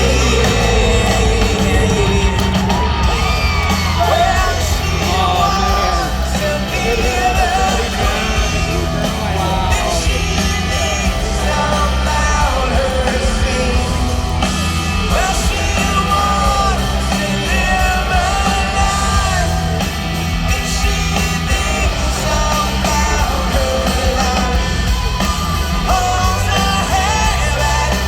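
Live rock band playing at full volume, heard from the stadium crowd, with singing and yells over a steady bass line.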